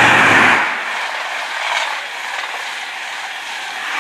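Class 43 HST power car and train passing through the station at speed. The loud rush and engine note drop away sharply about half a second in, leaving a lower rushing noise from the departing train.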